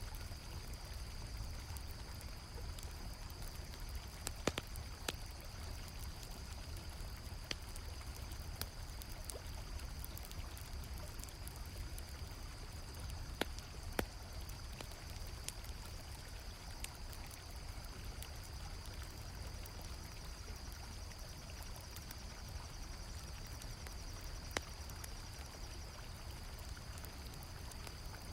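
Water flowing steadily in a river, crickets chirping in a continuous high trill, and a campfire crackling, with a few sharper pops standing out.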